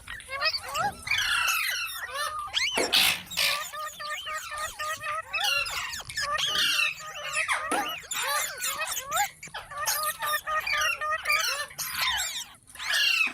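Parrots chirping and squawking: many quick, overlapping, rising-and-falling chirps, with a couple of harsher screeches about three and eight seconds in.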